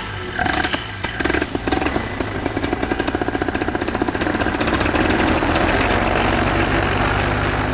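Paramotor engine starting and running up: a few uneven firings at first, then the firing rate climbs over the next few seconds into a steady, fast run.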